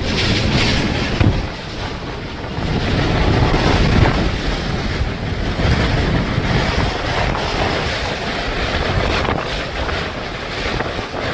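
Hurricane wind gusting hard against the microphone, a loud, continuous rush of noise that swells and eases.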